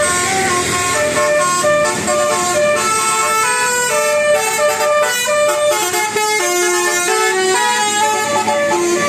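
A continuous tune of held, horn-like tones stepping from note to note, several sounding together.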